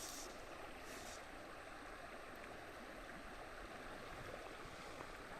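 Faint, steady rush of creek water flowing, with two brief airy swishes near the start.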